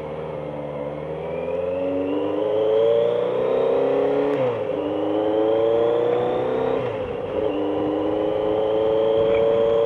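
Motorcycle engine accelerating through the gears: its pitch climbs, drops at an upshift about four and a half seconds in, climbs again, drops at a second shift about seven seconds in, then holds steady at cruising speed.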